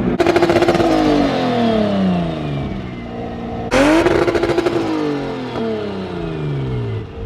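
A car engine revved hard twice, about three and a half seconds apart; each time the note jumps up suddenly and then falls away slowly as the revs drop, with a rapid crackling pulse from the exhaust.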